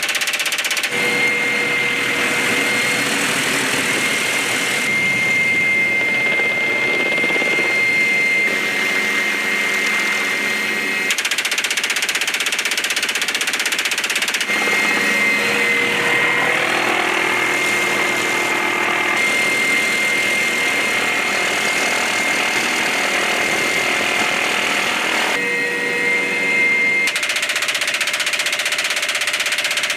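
Helicopter turbine whine and rotor noise, cutting from one clip to the next every few seconds.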